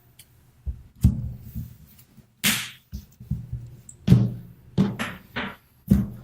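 A deck of Magic: The Gathering cards being shuffled by hand after a library search: a series of sharp knocks as the deck is tapped on the table, with a brief rustle of cards about two and a half seconds in.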